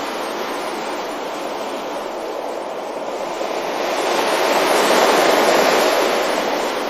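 Ocean waves breaking on a beach, a swell of surf building about four seconds in and easing near the end.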